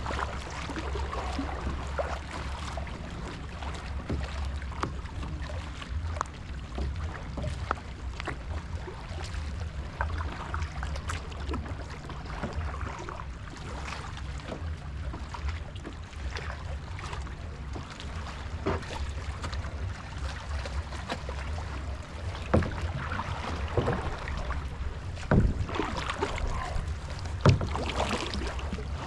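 Kayak being paddled: paddle splashes and water dripping over a steady low rumble, with a few sharper splashes or knocks near the end.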